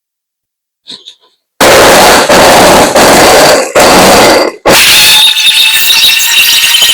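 Electric blender, switched on and off in short pulses four times, then run steadily, with a faint motor whine under the noise.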